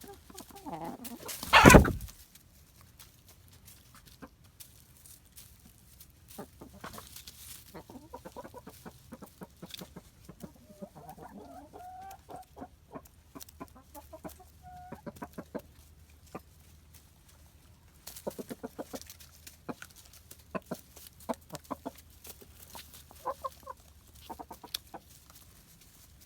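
Buff Orpington hens clucking softly while foraging for crickets, with many short ticks and taps scattered throughout. A single sharp, loud noise about two seconds in is the loudest thing.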